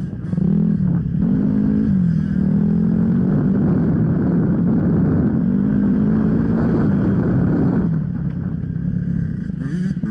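Off-road motorcycle engine running hard under changing throttle, its pitch repeatedly rising and dropping as it accelerates and shifts, then easing off about eight seconds in.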